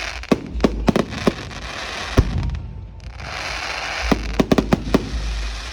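Fireworks going off: hissing with two quick runs of sharp cracks and bangs, and one louder bang about two seconds in.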